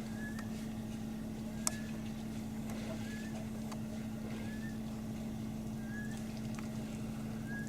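Steady low hum of an idling vehicle engine. A short high chirp repeats about once a second over it, and there is one sharp click.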